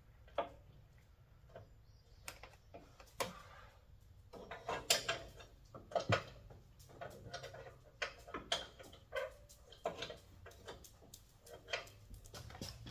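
Irregular light clicks and clanks of hand tools against metal, a few with a short ring.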